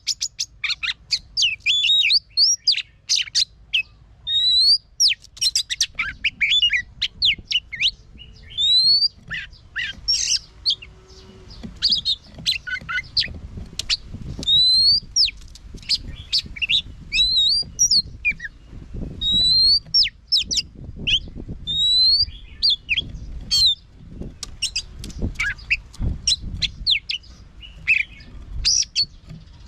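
Oriental magpie-robin singing a long, varied song of clear rising whistles mixed with quick short notes, almost without pause.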